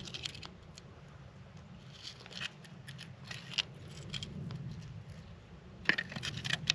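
Light clicks and scrapes from handling a found animal skull or jawbone, in a few short clusters, the busiest near the end.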